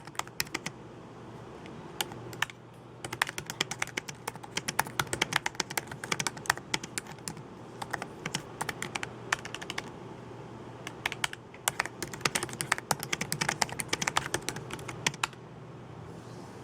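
Computer keyboard being typed on in bursts of rapid keystrokes with short pauses between them; the typing stops about a second before the end.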